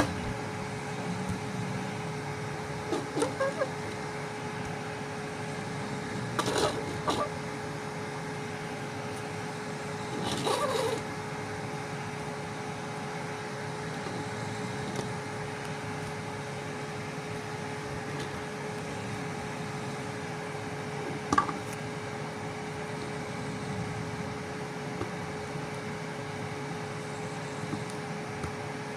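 Steady mechanical hum with one even tone, broken by a few brief clicks and knocks of handling about three, six, ten and twenty-one seconds in.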